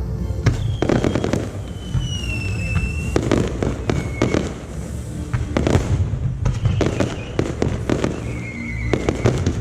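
Aerial fireworks shells bursting in quick, irregular succession over a low rumble. A few thin whistling tones fall in pitch among the bangs.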